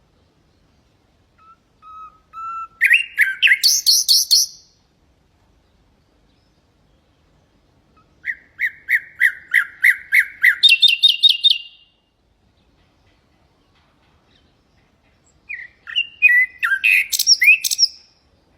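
Common nightingale singing three separate phrases a few seconds apart. The first starts with a few soft notes and breaks into a loud rapid trill. The second is a run of about ten repeated notes that jumps to a higher repeated note, and the last is a quick jumble of varied notes.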